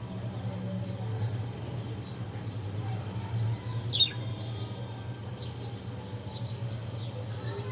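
Small birds chirping: one sharp, high chirp about four seconds in and a few faint short chirps later, over a steady low hum.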